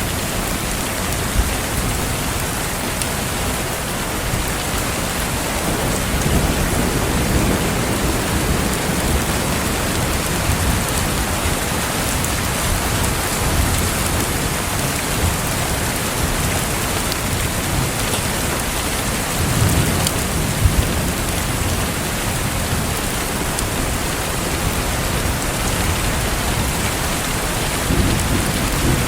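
Steady rain falling, with low rumbles swelling a few times and a few short pops from a crackling fireplace.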